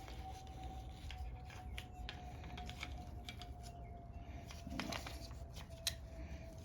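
Faint, scattered clicks and light knocks of small parts being handled and fitted while a lawn mower carburetor is put back in place, over a faint steady hum.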